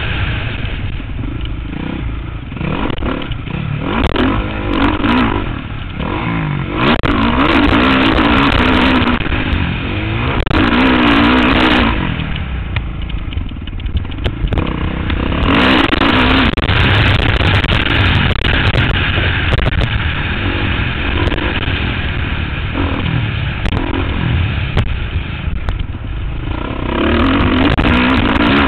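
Motocross bike engine recorded from the rider's helmet camera, revving up and down repeatedly through a lap. The engine eases off for a few seconds a little before halfway, then picks up again.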